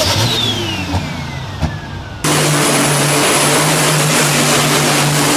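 Pulling tractor engines at full power: first a loud run with a high whine falling steadily in pitch, then an abrupt change about two seconds in to a louder, steady engine note held at high revs.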